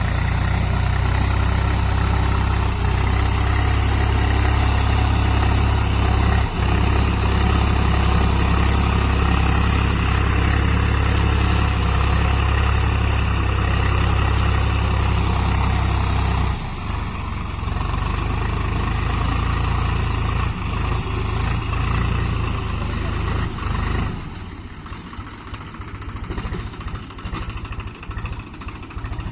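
Swaraj 735 FE tractor's diesel engine running steadily. Its level drops a little past halfway and drops further near the end.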